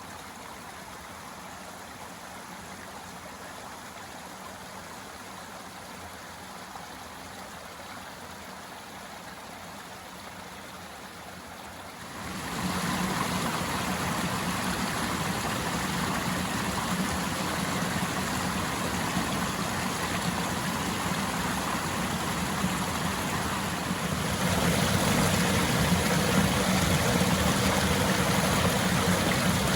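Flowing stream: a steady rush of water, which gets suddenly louder about twelve seconds in and louder again a little before the end.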